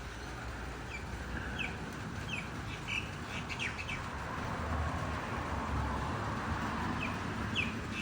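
Small birds chirping, short quick downward chirps coming in two clusters, over a steady faint background hiss.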